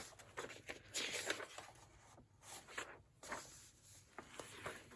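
Paper pages of a large antique illustrated Bible being turned, a few soft rustles and flutters of paper in quick succession.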